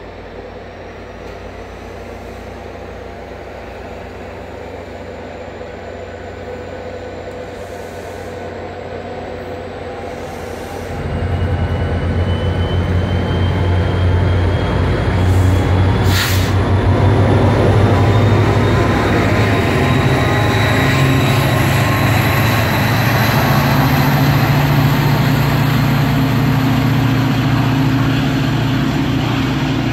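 Departing push-pull passenger train accelerating away: the cars roll past, then about eleven seconds in the diesel locomotive's engine grows loud and throttles up as it goes by. A high whine rises steadily in pitch as the train gains speed, with one sharp click about sixteen seconds in.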